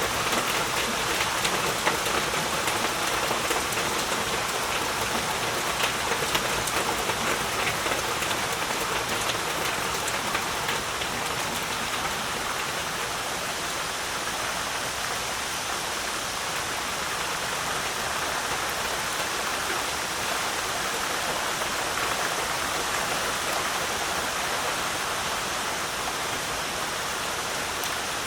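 Heavy rain falling steadily as a dense hiss of drops. Sharper individual drop patters stand out through roughly the first half, then the sound evens out.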